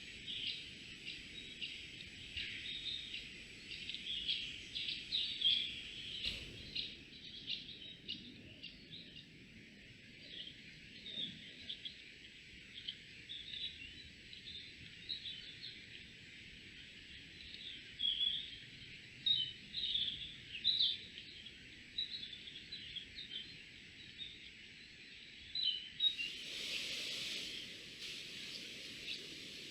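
Small woodland birds chirping and calling in many short notes, over a faint steady high tone. Near the end a brief burst of hiss covers the calls for a couple of seconds.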